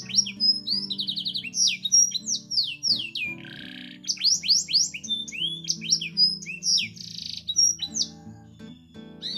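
Domestic canary singing a long chattering song: runs of fast repeated falling notes and quick trills, with a short buzzy phrase partway through, over soft background music.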